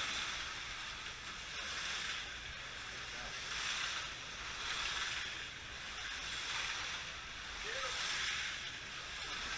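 Slot cars running laps on the track: a steady high whirring hiss that swells and fades every second and a half or so as the cars pass.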